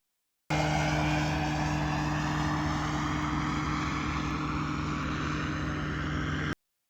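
Engine and propeller of a one-person ultralight aircraft, a motorized hang glider, passing low overhead. It makes a steady drone at a constant pitch, cuts in abruptly about half a second in and stops abruptly near the end.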